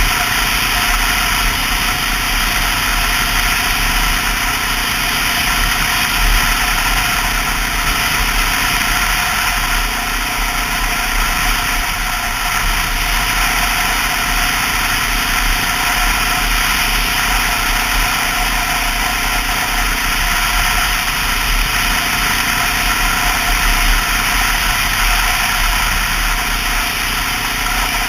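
Honda XR650L's single-cylinder four-stroke engine running steadily as the motorcycle is ridden, with a loud, even mechanical drone.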